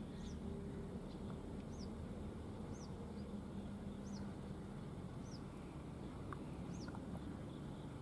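A small bird repeating a short, thin, high note that falls in pitch, about once a second, over a steady low rumble.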